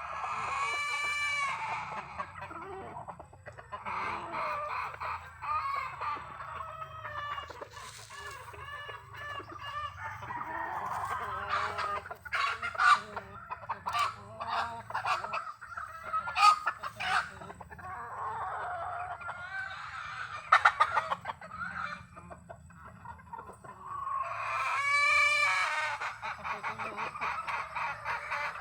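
A flock of chickens clucking and calling, with a rooster crowing about a second in and again near the end. Several sharp knocks sound in the middle.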